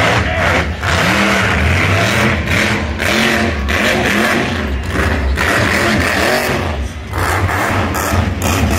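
Monster truck engine revving hard in repeated blips, the pitch climbing and falling again and again, over a loud rushing din.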